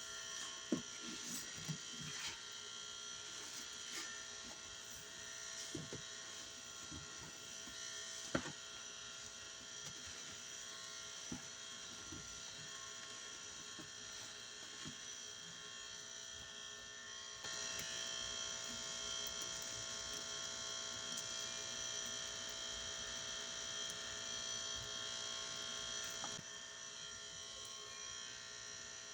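A steady electrical buzz made of several held tones, louder for about nine seconds in the middle. Under it come soft wet squelches and clicks from a soapy sponge being squeezed, most of them in the first third.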